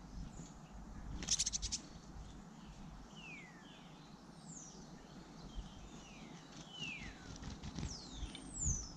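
Birds calling in a garden: a series of short, sharply falling whistled chirps, with a quick run of about eight sharp clicks just over a second in.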